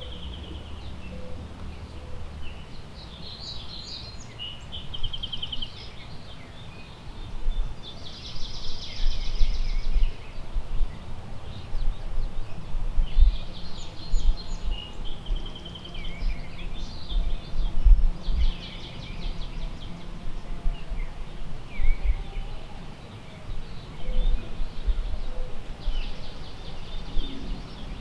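Several woodland songbirds singing: short chirps and repeated rapid trills, one phrase every few seconds. Underneath, wind gusts rumble on the microphone.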